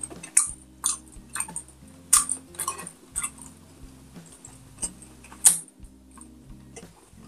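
Close-miked chewing and mouth smacks of someone eating pork and rice by hand, a string of sharp, crackly clicks, the loudest about two and five and a half seconds in. Faint soft background music underneath.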